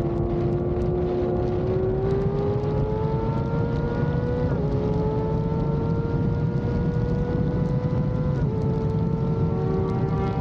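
Sport motorcycle engine pulling under steady acceleration, its note climbing slowly and dropping sharply twice as it is shifted up through the gears, over low wind rumble.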